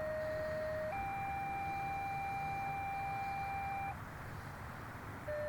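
Two-tone dispatch paging tones over a radio scanner: a steady lower tone for about a second, then a higher tone for about three seconds, alerting fire-rescue units to a call. A second page begins the same way near the end.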